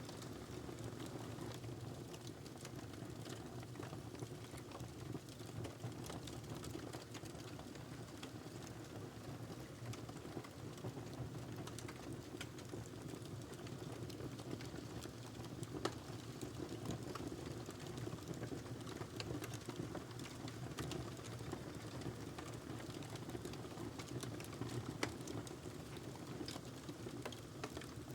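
Wood fire burning in a fireplace: a steady low rumble of flame with irregular crackles and small pops throughout, and a few sharper pops along the way.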